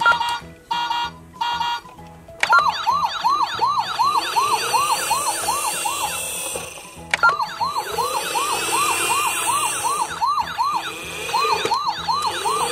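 A toy fire truck's electronic siren sound effect: three short beeps, then a fast up-and-down yelp repeating about three times a second, which starts over twice.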